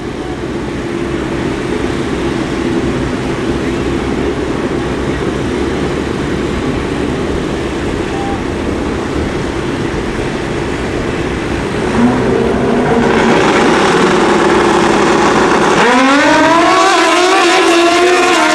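Two pro drag motorcycles running at the starting line, engines held at higher revs from about twelve seconds in, then launching about sixteen seconds in with the engine pitch climbing steeply and stepping through the gears.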